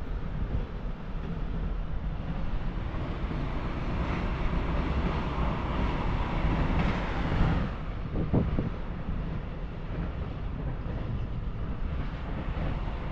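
Thunderstorm ambience with wind buffeting the microphone and a steady low rumble. A hissing swell builds from about four seconds in and drops off sharply around seven and a half seconds, followed by a brief low thump.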